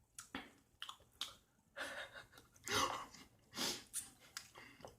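A person chewing a mouthful of orange segments: a quiet run of short, irregular chewing noises and clicks.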